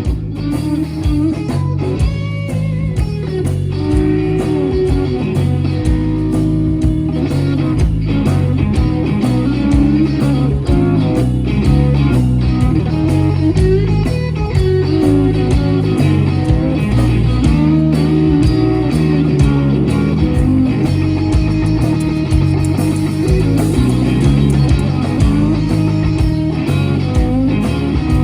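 Blues-rock band playing an instrumental break live, with electric guitar in front over bass guitar and drums.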